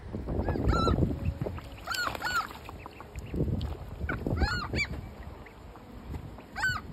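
Seagulls calling, with short arched cries repeated several times, over gusts of strong wind buffeting the microphone.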